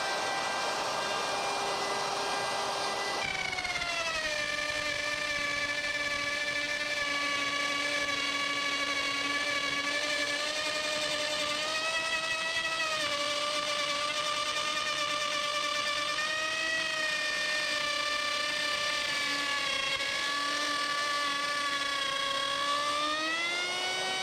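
Electric wood router running and cutting, a high motor whine whose pitch drops about three seconds in as the bit takes load, then dips and recovers several times as the cut goes on.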